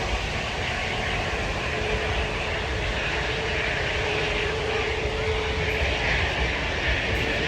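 Airliner jet engines running, a steady rushing noise with a faint steady whine that comes in about two seconds in.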